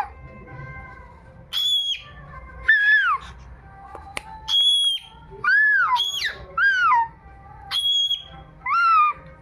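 Cockatiel whistling in short separate notes, most of them arching up and falling away. They alternate with a few steady, level whistled notes held at one pitch, about eight notes in all.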